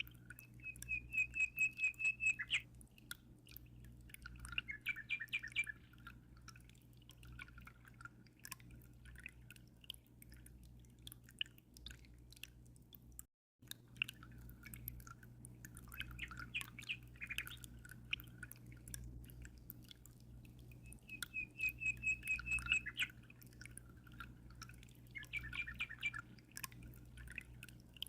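A small songbird singing in short phrases of rapid trills and chirps, with the same phrases coming back in the second half. Under the song runs the steady low hum and faint trickle of an aquarium. The sound cuts out completely for a moment about halfway through.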